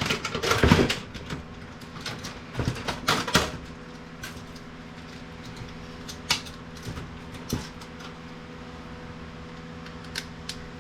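Plastic printer parts knocking and clattering as a piece is popped out and handled, in a quick run of sharp knocks over the first few seconds. After that come a few single clicks, over a steady low hum.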